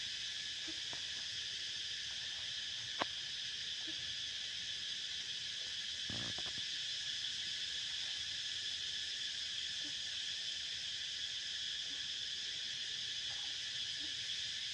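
Steady, continuous chorus of insects buzzing in several high pitches, with one sharp click about three seconds in and a short rustle about six seconds in.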